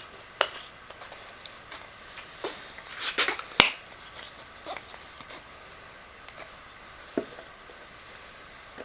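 Light clicks and knocks of small parts and tools being handled, bunched in the first half with the loudest a sharp click about three and a half seconds in, then only a couple of faint taps.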